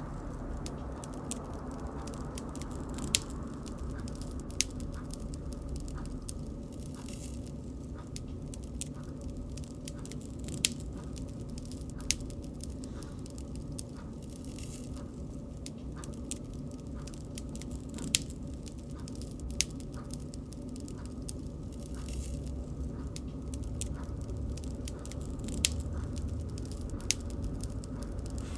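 Wood bonfire crackling: irregular sharp snaps and pops, a few of them loud, over a steady low rumble of burning.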